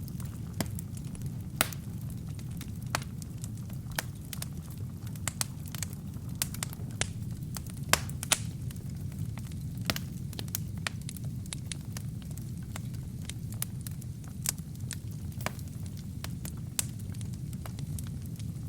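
Wood fire burning in a fireplace: a steady low rumble of flames with irregular sharp crackles and pops from the burning kindling and logs.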